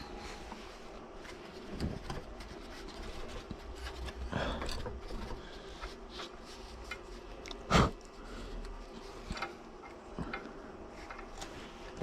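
Scattered light clicks and rubbing of hard objects being handled, with one loud sharp knock about eight seconds in.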